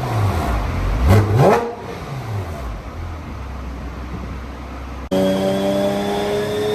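Porsche GT4 Clubsport's flat-six engine, breathing through a Soul Performance exhaust, is blipped in a quick rev and then settles to a low idle. About five seconds in, an abrupt cut brings a steady pull under load on the chassis dyno, its pitch climbing slowly.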